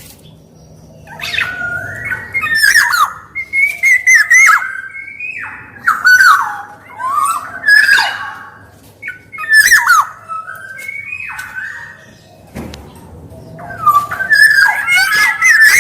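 Black-naped oriole (kepodang) singing: a run of short, fluty, slurred whistled phrases mixed with harsh squawky notes. The song breaks off about twelve seconds in, then comes back in a dense burst near the end.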